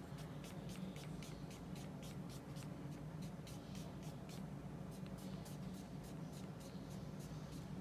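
Paintbrush scrubbing oil paint onto multimedia paper in quick back-and-forth strokes, about four a second, pausing for a couple of seconds midway, with a low steady hum underneath.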